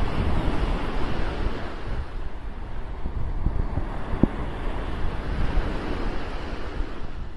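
Sea surf washing in with wind, a steady rushing noise with a deep rumble underneath.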